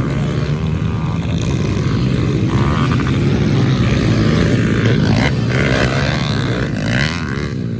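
Several pit bike engines running hard at once, their pitch rising and falling as they rev.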